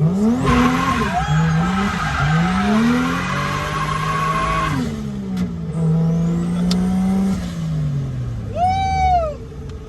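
Drift car's engine revving up and down as it is driven hard, with tyres squealing loudly through the first half. The revs fall away near the end, and a short, high, rising-and-falling squeal comes just before the end.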